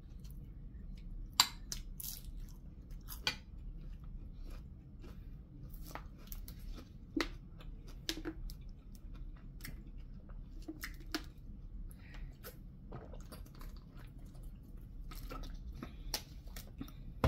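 Close-up chewing and crunching of crispy fried lumpia (spring rolls) and rice, with scattered sharp clicks over a low steady hum.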